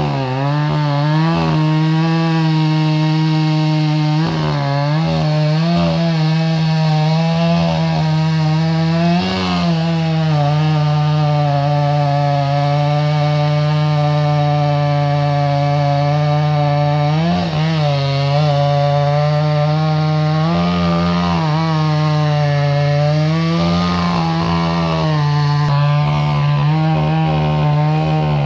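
Chainsaw running at high revs while cutting through maple wood, its engine note held steady and wavering briefly several times as the load changes.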